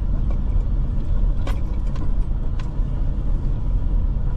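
Steady low rumble of a car on the move, with a few light clicks and knocks.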